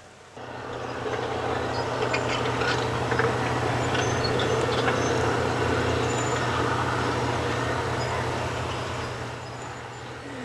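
Tractor engine running steadily, starting abruptly just after the start and easing slightly near the end.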